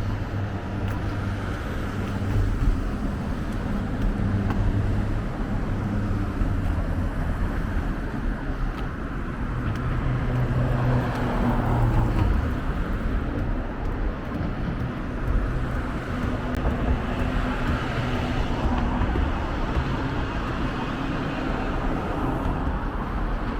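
Street traffic: car engines running and vehicles passing close by, swelling and fading, over a steady low hum.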